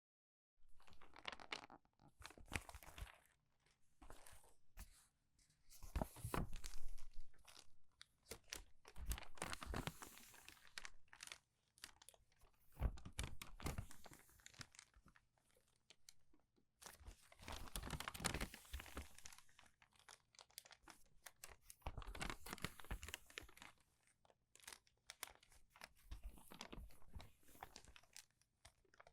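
Crumpled, crinkly paper pages being turned quickly one after another, each turn a crackling rustle, roughly every two to three seconds.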